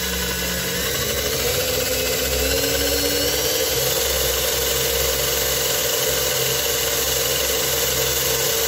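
Parkside PABS 20 Li E6 cordless drill running in second gear, drilling a 3 mm hole in a steel tube. The motor whine climbs in pitch over the first few seconds as the trigger is squeezed, then holds steady under load.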